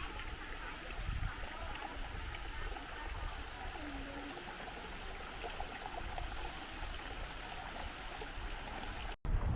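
Stream water running steadily over the rocks of a waterfall, with a brief break in the sound near the end.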